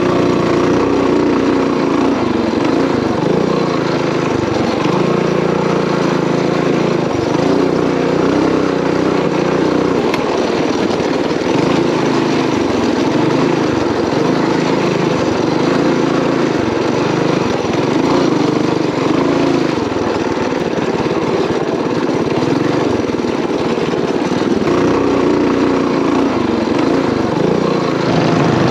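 Small single-cylinder mini bike engine running under way on a dirt trail, its engine speed rising and falling with the throttle.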